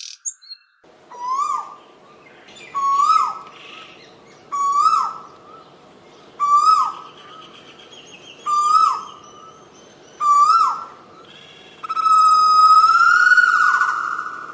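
A bird calling: six short notes about two seconds apart, each swooping up and then dropping, followed by one longer drawn-out call with a wavering pitch near the end.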